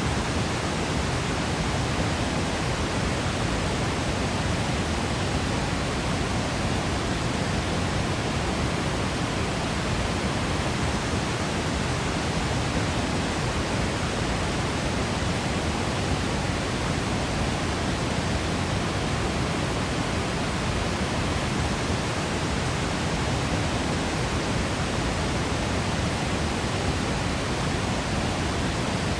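Waterfall crashing, a steady, even rush of falling water with no change in level.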